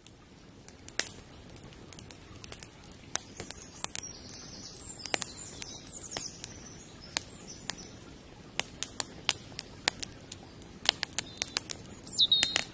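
Scattered sharp crackling clicks at irregular intervals over a low steady hiss, with brief high bird chirps a few seconds in and again near the end.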